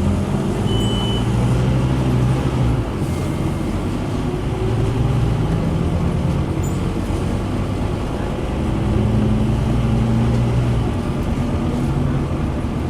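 Scania N230UD double-decker bus's diesel engine running under way, with a steady low drone that swells and eases several times as the bus pulls and backs off.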